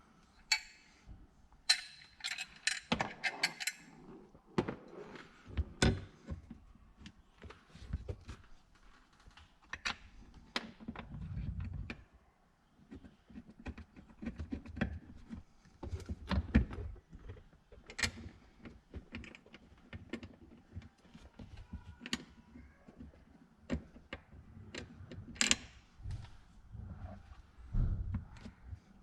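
Irregular clicks, knocks and metallic rattles of hand tools and parts being handled, with a dense run of rattling clicks a couple of seconds in and a few duller thumps later on.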